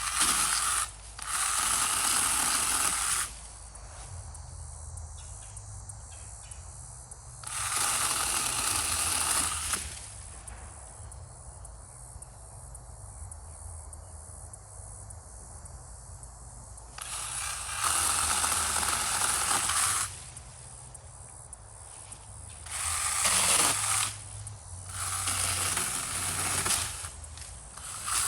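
Battery-powered mini chainsaw cutting into wood in short runs: about six bursts of one to three seconds of rough chain-cutting noise, with pauses between them.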